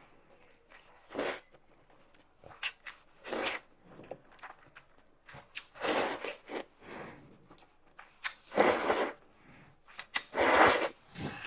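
Loud slurps of thukpa noodles and broth, about five of them a couple of seconds apart, with a few sharp utensil clicks on the bowl in between.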